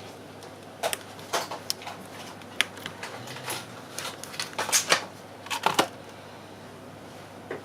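Irregular light clicks and taps of small hard objects being handled, a dozen or so, bunched more closely about four to six seconds in.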